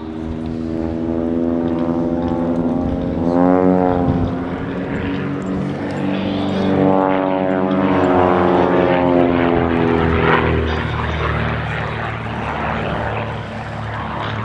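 Pitts Special aerobatic biplanes' piston engines and propellers running at full power in a loop. The engine note swells and bends in pitch twice, briefly about three seconds in and again over several seconds from about five seconds in.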